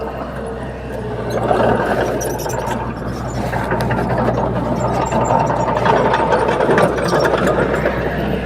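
Komatsu D21P bulldozer's diesel engine running steadily, with metallic clanking and clicks. It grows louder about a second and a half in.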